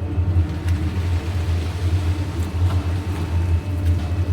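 Engine of a concrete mixer lorry running steadily with a low, even hum, a few faint knocks over it.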